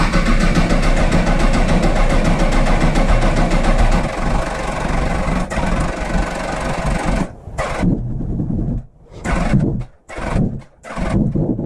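Honda CBR1000RR inline-four engine running just after start-up, with a prominent tick or knock coming through the motor that the owner hears more from the top end. After about seven seconds the sound cuts in and out in short chopped bursts.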